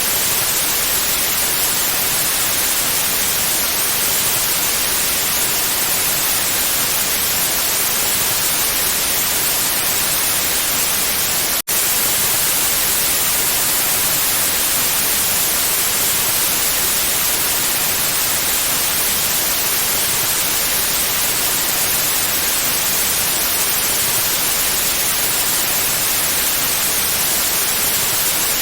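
Steady, even white noise hiss, with a split-second dropout about twelve seconds in.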